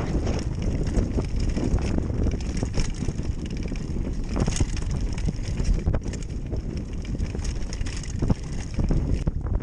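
Wind buffeting the microphone in a steady, heavy rumble, with frequent small knocks and rattles throughout.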